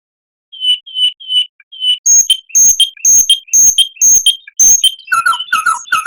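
Songbird song from a masteran recording for training caged songbirds: a series of clear whistled notes, each phrase type repeated several times. It opens with a few notes, moves to loud alternating high and lower notes at about two a second, and near the end switches to quicker downslurred notes.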